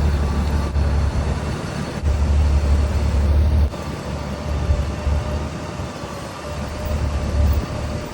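Motorcycle on the move, its engine running with a heavy low rumble that swells and drops several times.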